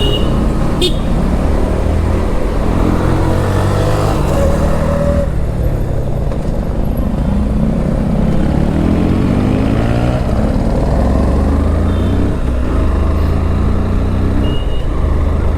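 Motorcycle engine running on the move, its pitch rising and falling with the throttle and gear changes, under a steady rumble of wind on the helmet camera's microphone.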